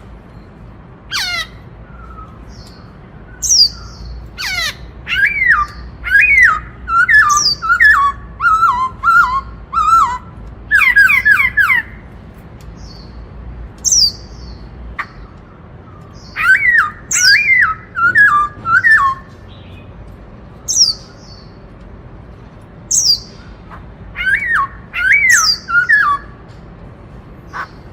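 Black-throated laughingthrush singing its 'bắt cô trói cột' song: three bouts of quick, rising-and-falling notes, with sharp high squeaks between the bouts.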